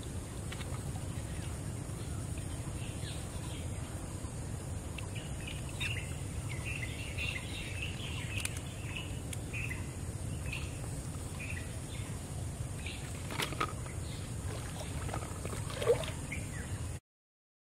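Birds chirping off and on over a steady low background hum, with one short louder sound near the end; the sound then cuts off suddenly.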